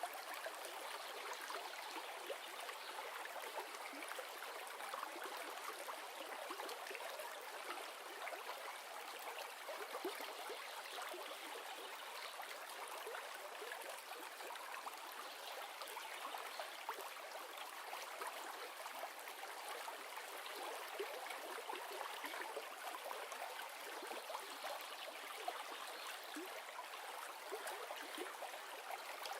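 River water flowing steadily, an even rushing and babbling with nothing deep under it.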